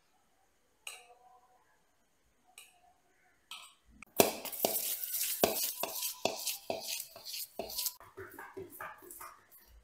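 Metal kitchen utensil clinking against a dish. A few light clinks come first, then about four seconds of quick, regular strokes, roughly three a second, followed by lighter clinks.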